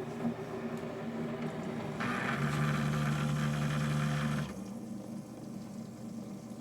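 Keurig coffee maker brewing: its water pump hums steadily and runs louder and buzzier from about two seconds in, dropping back about two seconds later. This is the brew cycle pushing water through a K-cup needle just cleared of coffee grounds.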